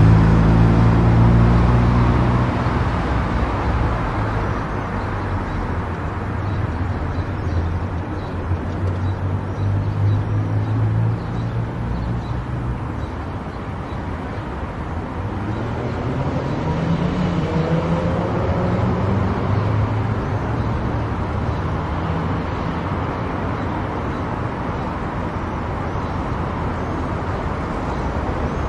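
Highway driving noise: a steady rush of tyre and wind noise with a low engine hum that fades after about ten seconds and comes back rising in pitch about fifteen seconds in.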